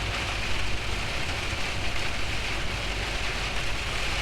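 Steady noise inside a Scania truck's cab driving through heavy rain on a flooded road: the low rumble of the engine and tyres under an even hiss of rain and water spray.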